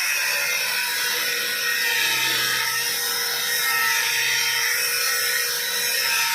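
High-speed power tool running steadily under load with a high whine.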